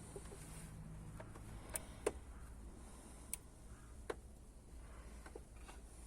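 About five sharp clicks and light taps at irregular moments, the loudest about two seconds in, from tools or parts being handled on a workbench, over a low steady hum.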